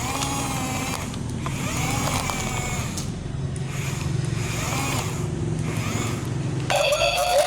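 Small electric motors of a toy excavator whining, the pitch rising and falling in repeated swells about once a second as the motors speed up and slow down. Near the end a louder, steadier tone cuts in.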